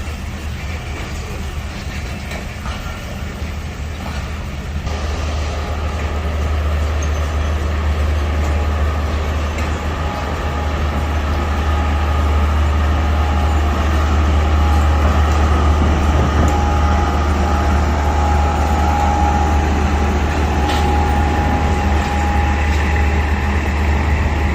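The green Subak Raftar passenger train running on the track as a steady low rumble that grows louder from about five seconds in and stays loud.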